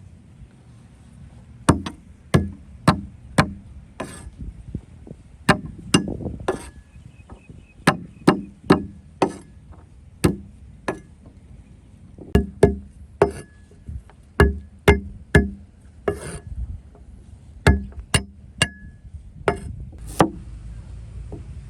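Food being chopped with a blade on a wooden board: irregular sharp strokes, one or two a second, some with a short metallic ring, starting about two seconds in.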